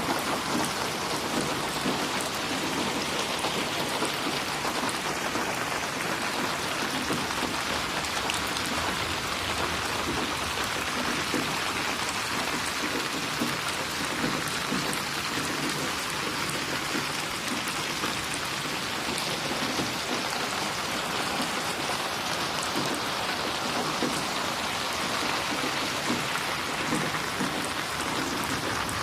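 Steady rain falling and splashing on a surface, a dense even patter of drops with no thunder.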